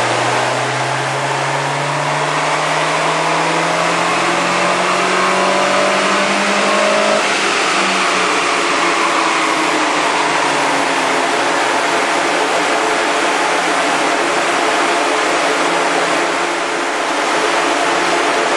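Citroën Saxo VTR's 1.6-litre four-cylinder engine pulling up through the revs under load on a rolling road: a rising engine note for about seven seconds, then it breaks off and the pitch falls away as the run ends. Underneath, a loud steady rush from the dyno's big cooling fan and the spinning rollers.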